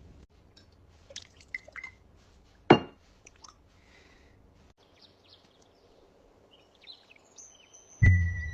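Scattered faint bird chirps over a quiet background, with one sharp click a little under a third of the way in. Near the end a louder sound cuts in abruptly: a steady high tone over a low hum.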